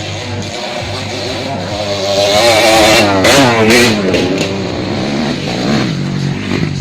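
Motocross motorcycle engine revving, its pitch rising and wavering, loudest from about two to four seconds in.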